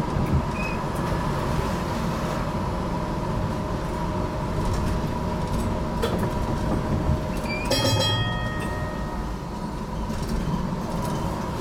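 HTM GTL8 articulated tram running between stops, heard from inside the car: a steady rumble of wheels on rail with a steady whine and faint clicks. About eight seconds in comes a brief, high ringing sound.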